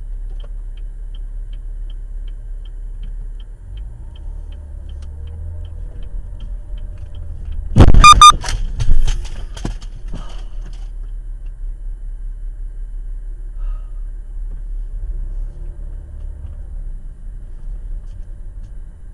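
Car interior as recorded by a dashcam: a steady low rumble of engine and road with a faint regular ticking about three times a second, then about eight seconds in a loud collision bang with a brief ringing tone, followed by a second knock about a second later, before the rumble settles again.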